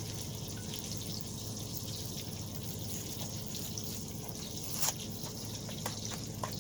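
Hot Instant Pot pan sizzling quietly with a fine steady crackle over a low hum, with a few small clicks near the end, the loudest about five seconds in.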